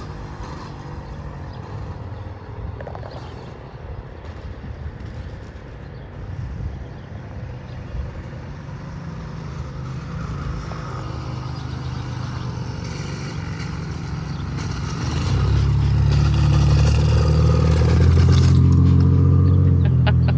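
Small engine of a motorized bicycle running as the bike is ridden along the road. It is fainter at first and grows much louder over the last five seconds as the bike comes close.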